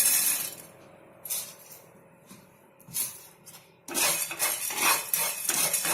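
A metal spoon clinking against a pan a few times. Then, from about four seconds in, rapid scraping and clinking as dry fennel seeds, cumin and black pepper are stirred and roasted in the pan.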